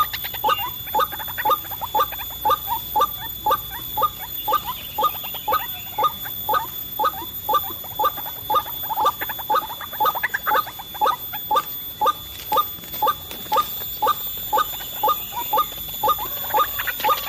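White-breasted waterhen calls: a short croaking note repeated evenly, about two to three times a second, without a break.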